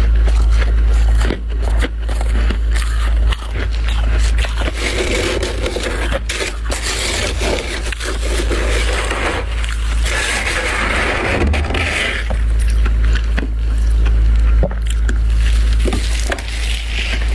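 Freezer frost being scraped and crunched up close: dense crackling and scraping, over a steady low hum.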